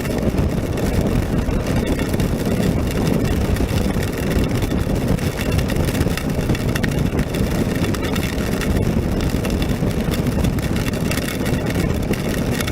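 Steady wind rush and wet-road noise from a moving Honda NC700X motorcycle in the rain, its parallel-twin engine running underneath, with scattered faint ticks.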